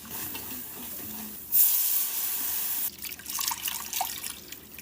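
Kitchen tap running, starting suddenly about a second and a half in and shut off about a second and a half later, with small drips and clicks around it.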